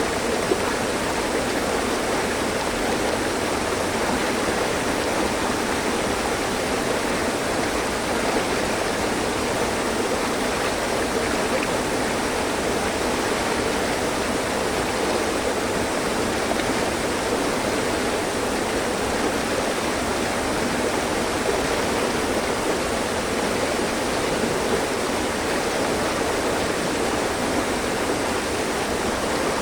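Mountain stream flowing over rocks: a steady rushing and splashing of water, even throughout.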